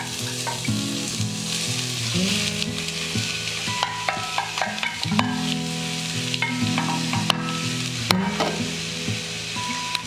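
Shredded potatoes for rösti sizzling as they fry in a pan, with a steady hiss. A few sharp clicks and scrapes of a utensil against the pan come through, two of them about seven and eight seconds in.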